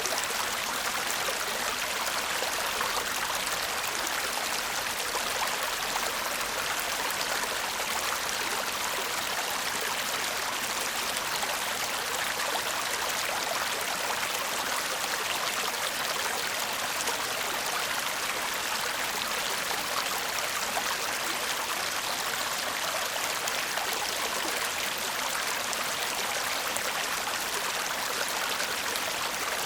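Shallow stream babbling steadily over stones, a continuous bright rush of water with fine trickling detail.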